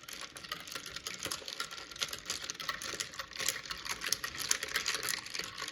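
Metal spoon stirring iced coffee in a cup, with rapid, irregular clinking of spoon against ice cubes and the cup's side.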